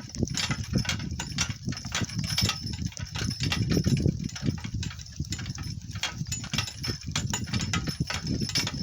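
Donkey cart rolling over rough, bumpy ground: a steady low rumble with frequent irregular clicks and knocks.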